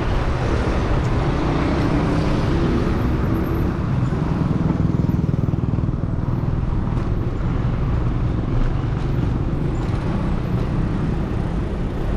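Wind rushing over the microphone of a cyclist riding along a city road, with motor traffic running alongside. A vehicle's engine hum swells during the first few seconds.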